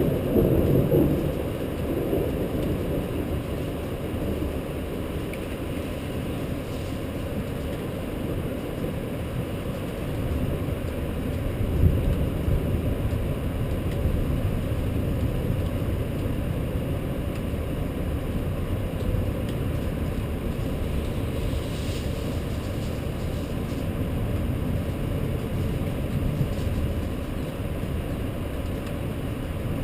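Steady low rumbling noise of a night rainstorm, with rolls of thunder: one at the start that fades over about two seconds, and another about twelve seconds in.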